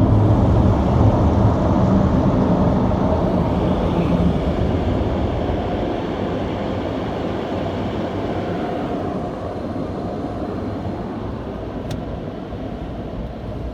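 Automatic tunnel car wash machinery heard from inside the car: a loud, steady rush with a low hum that slowly fades as the car moves along the tunnel.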